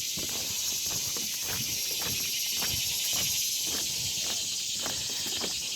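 A steady, high, pulsing chorus of insects buzzing in the trees, with soft footsteps on the trail about twice a second.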